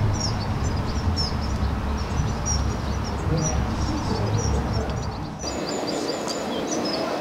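Small birds chirping and singing, many short high calls, over a low rumble that stops abruptly about five seconds in.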